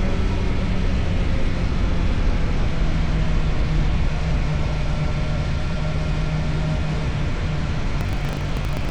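Motorcycle engine with an Akrapovic aftermarket exhaust running at steady speed under load, with the engine note stepping up slightly about three seconds in. A rumble of wind on the microphone runs beneath it.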